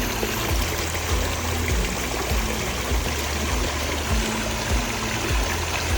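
Water running steadily over a pondless waterfall, a continuous rushing trickle.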